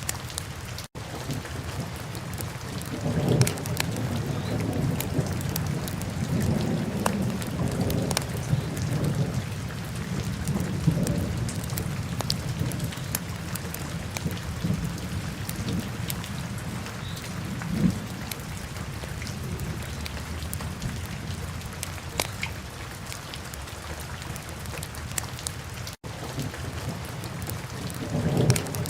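Wood fire in a fireplace crackling, with many sharp pops over a low rumble that swells and fades. There are two brief dropouts to silence, one about a second in and one near the end.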